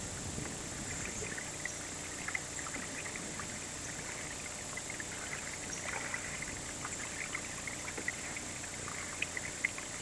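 A boat on the water: a steady rushing wash with scattered small ticks and splashes.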